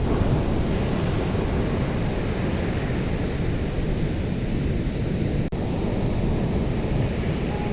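Ocean surf: a steady, deep wash of breaking waves, with a brief click and dip about five and a half seconds in.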